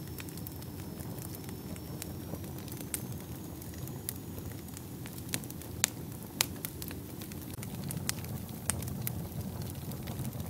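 Wood fire burning in a fireplace: a steady low rumble of flames with irregular crackles and sharp pops, a few louder ones near the middle.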